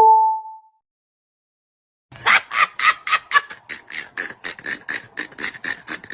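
A short two-tone ding that fades within half a second. After about a second and a half of silence comes a fast run of short, rasping pulses, about five a second, like a quacking or beatboxing sound effect.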